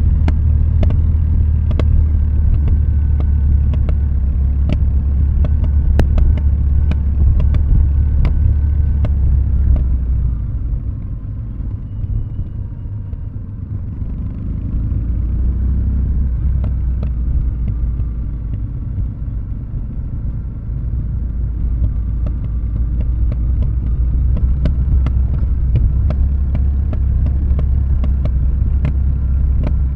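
Kawasaki W650's air-cooled parallel-twin engine through Nasert Trad mufflers, burbling at low revs while the bike coasts downhill on a closed throttle. The rumble fades for a few seconds about a third of the way in, then comes back, with scattered light ticks throughout.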